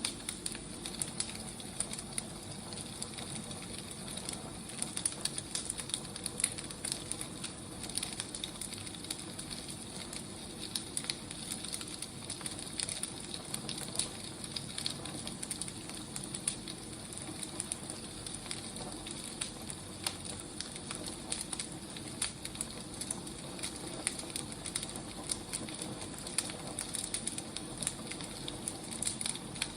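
Wood fire burning with a steady crackle, many small irregular pops and snaps over a soft hiss.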